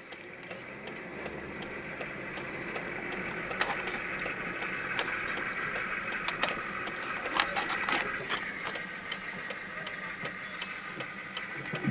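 Jeep-bodied monster truck's engine running as the truck drives off, heard from some distance, growing steadily louder over the first several seconds and easing off a little near the end, with scattered clicks and rattles.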